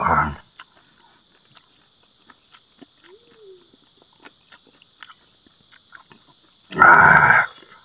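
Chewing with scattered small wet mouth clicks as a man eats chili-laden mango, with a loud breathy exhale at the start and a longer, louder one near the end, the hissing breath of someone burning from the chili heat. A steady high-pitched whine runs underneath.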